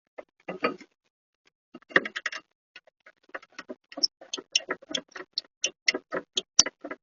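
A series of sharp mechanical clicks: two irregular flurries, then an even run of about three to four clicks a second.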